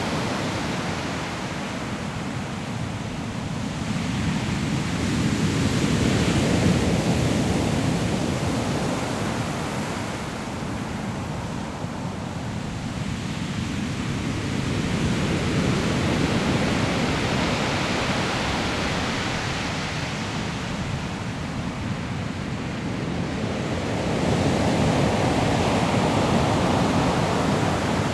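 Sea waves breaking on a pebble shore, a continuous rushing surf that swells and ebbs as each set of waves comes in, about three surges across the stretch, with some wind.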